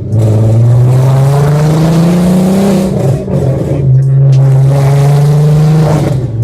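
Car engine and loud exhaust under hard acceleration. The pitch climbs for about three seconds, drops at a gear change, then holds steady revs before easing off again at the end.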